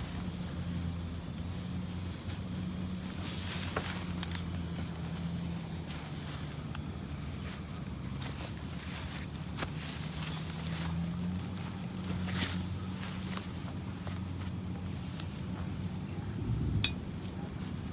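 Steady high-pitched chorus of night insects, with a few scattered light clicks and one sharper click near the end.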